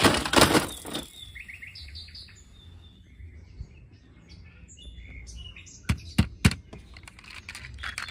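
Bird-like chirping in short calls, opening with a loud burst of noise in the first second, with a few sharp clicks or knocks about six seconds in.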